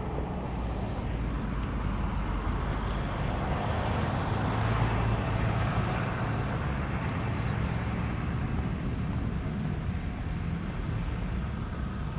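A motor engine running steadily with a low hum, swelling a little louder around the middle, as from a vehicle close by.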